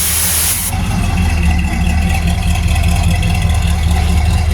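Car engine idling with a steady low rumble. A loud hiss cuts off abruptly under a second in.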